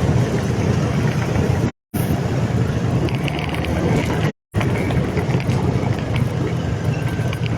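Motorcycle engine running steadily while riding. The sound drops out completely twice, for a split second each time.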